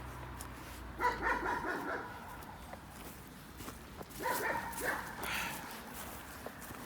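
Dog barking in two short bouts of quick barks, one about a second in and another from about four seconds in.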